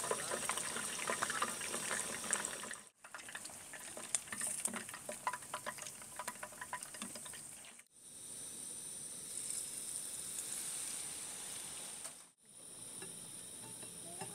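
Food frying and sizzling with sharp crackles, in several short clips split by brief cuts to silence; the later clips are a steadier hiss.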